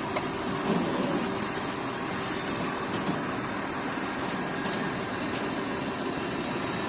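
Heavy rain falling steadily, with a diesel engine running at a steady pitch beneath it and a few faint sharp taps.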